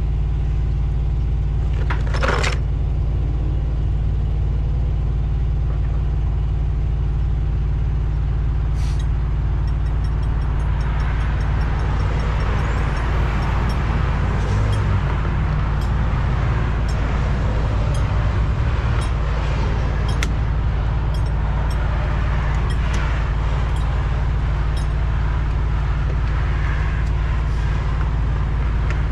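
A diesel truck engine idling with a steady low drone, with a short hiss about two seconds in. From about ten seconds on, the hiss of fuel draining out of the fuel/water separator into a container rises over it.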